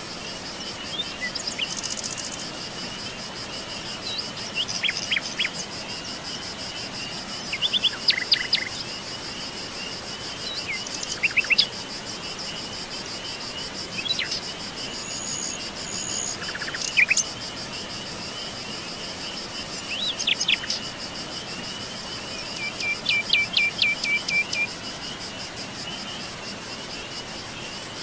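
Forest birds chirping and calling in short scattered bursts, with a quick run of repeated notes near the end, over a steady high-pitched insect trill and a faint even hiss.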